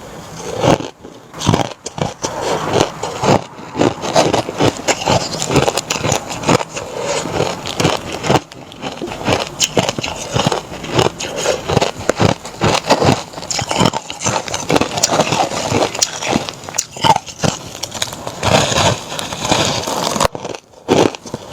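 Close-up crunching of pressed crushed ice being bitten and chewed, a dense run of crackles and crunches with short pauses about a second in, around eight seconds in and near the end.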